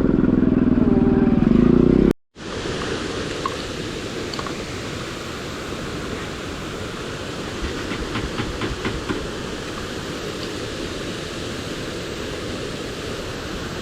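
A motorcycle engine runs for about two seconds, then the sound cuts off abruptly. A steady rushing noise follows, with a few faint ticks.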